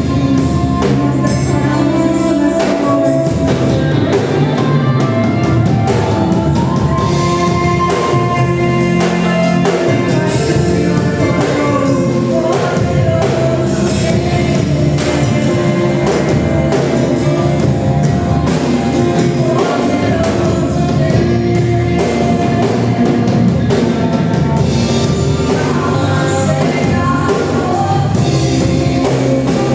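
Live worship band playing with a drum kit and sung vocals: gospel praise music.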